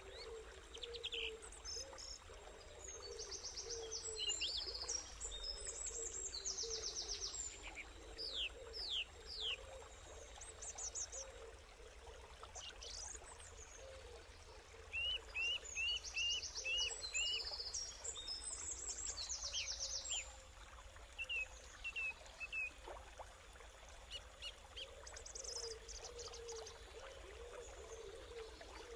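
Wild birds calling and singing: rapid high trills, several downward-sliding whistles, and a run of about six short chirps in the middle, over a faint steady background.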